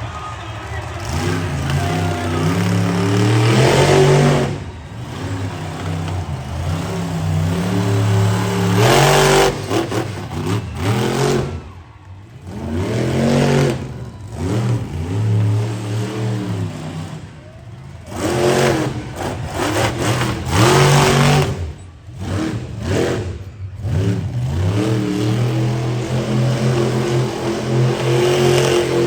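Monster truck engine revving hard in repeated surges, its pitch climbing and falling again and again, with the throttle briefly dropping off several times.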